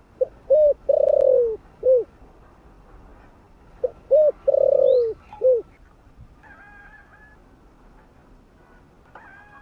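Spotted dove cooing: two call phrases a few seconds apart, each a couple of short coos, a longer drawn-out coo and a final short coo.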